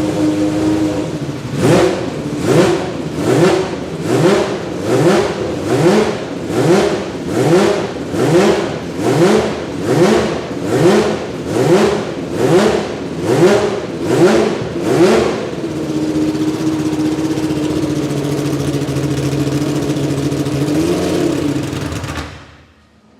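A historic Group C race car engine idles, then is revved in a long run of short, evenly spaced throttle blips, about one every second, each rising in pitch and falling back. It then settles to a steady idle with one small blip before the sound cuts off abruptly.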